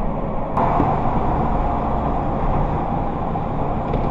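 Steady road and engine noise of a moving vehicle, heard from inside the cab, with a sudden change in tone about half a second in.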